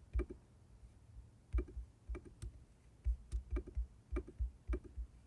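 Irregular short clicks and taps from working a computer's pointing controls: a few spaced clicks, then a quicker run of about eight from around three seconds in.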